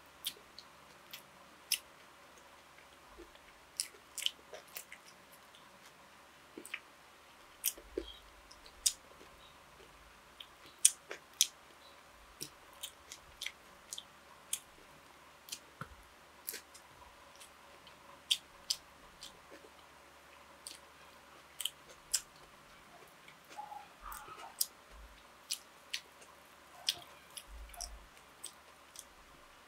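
A person chewing and eating, mouth open to the sound: irregular sharp wet clicks and smacks, often one or two a second, sometimes in quick pairs.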